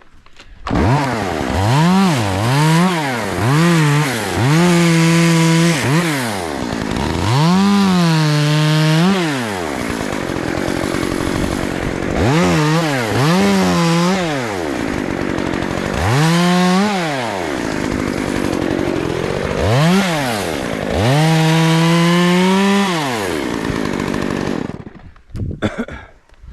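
Two-stroke chainsaw starting about a second in, blipped several times in quick succession, then repeatedly held at full throttle for a second or two and dropped back to a lower speed between, and shut off near the end.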